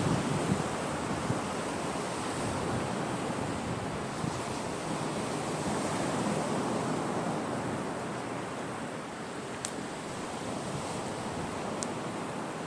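Sea waves washing onto the shore, a steady rush that swells and eases slowly. Two brief sharp clicks stand out near the end.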